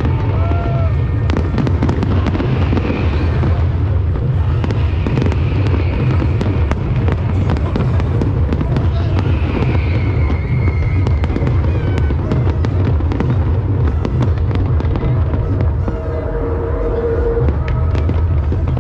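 Fireworks display: a dense, continuous barrage of sharp bangs and crackles, one after another.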